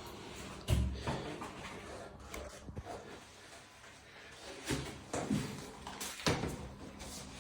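A few light knocks and handling noises, spaced several seconds apart, over a quiet background.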